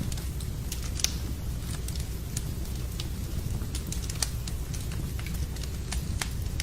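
Log fire crackling in a fireplace, with irregular sharp pops and snaps, the loudest about a second in, over a steady low rushing of rain.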